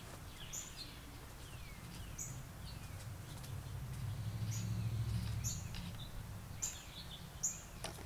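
A bird calling outdoors: a series of short, sharp, high chips, roughly one a second, some with a lower slurred note. A low rumble swells and fades in the middle.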